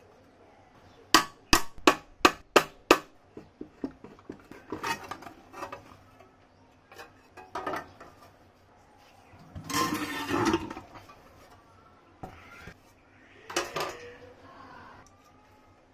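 Metal parts of an old table fan being handled in a workshop. Six sharp metallic taps come about three a second near the start, then scattered clinks and scraping handling noises, the loudest about two-thirds of the way through.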